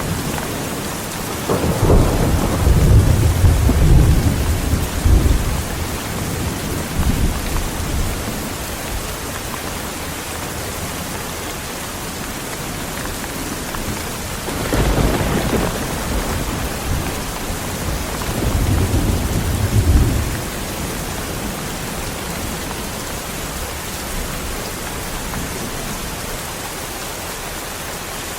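Heavy rain falling steadily, with two long rolls of thunder. The first rumbles in about a second and a half in and dies away over some six seconds. The second comes about halfway through and ends with a louder crack about twenty seconds in.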